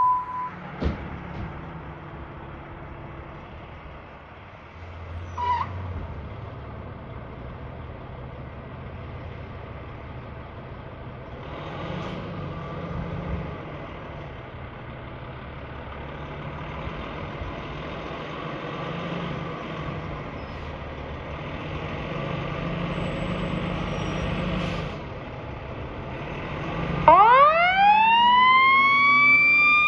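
Fire engine running steadily, with a few brief sharp sounds, before its siren starts about 27 seconds in, rising quickly in pitch and levelling into a loud wail.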